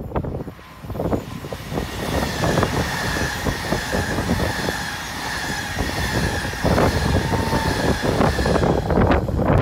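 SBB double-deck electric passenger train passing close by at speed, wheels rolling on the rails with a continuous clatter. A steady high whine runs through most of the pass.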